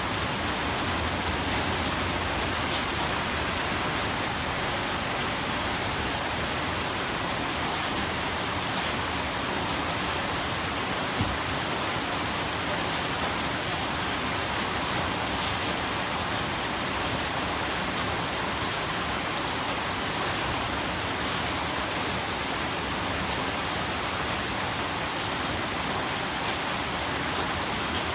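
Steady rain falling, an even hiss with scattered individual drops pattering on a surface, one slightly louder drop about eleven seconds in.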